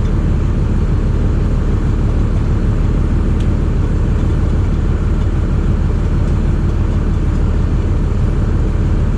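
An engine running steadily at constant speed, a loud low even drone that does not change, with a couple of faint clicks.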